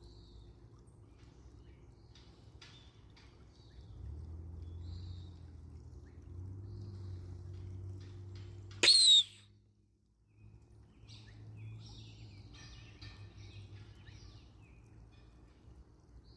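A hawk-like scream, one loud, short call that sweeps downward in pitch about nine seconds in. Faint, scattered high bird calls are heard before and after it over a low steady rumble.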